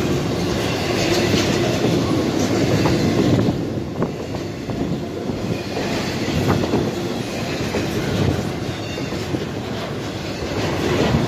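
Norfolk Southern intermodal freight train's double-stack well cars rolling past at close range: a steady rumble of steel wheels on rail, with scattered clicks.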